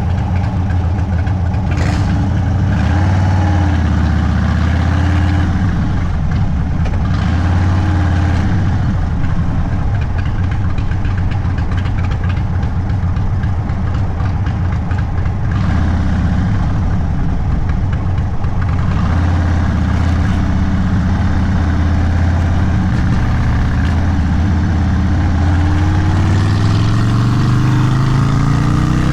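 Indian Sport Chief's Thunderstroke 116 V-twin running through an aftermarket Sawicki Speed exhaust at low, steady throttle, with a few light swells in engine speed. Near the end the pitch climbs steadily as the bike accelerates.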